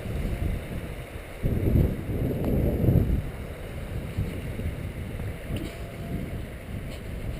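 Low, uneven rumble of wind buffeting the camera microphone, swelling in gusts about one and a half to three seconds in.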